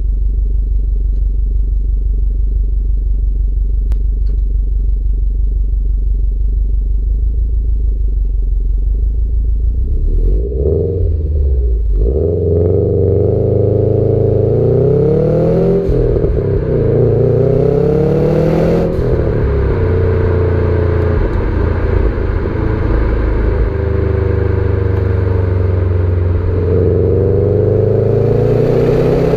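Subaru Impreza STI's turbocharged flat-four running on its standard exhaust. It idles steadily for about ten seconds, then the revs climb and drop several times as it drives off, hold steadier, and rise again near the end.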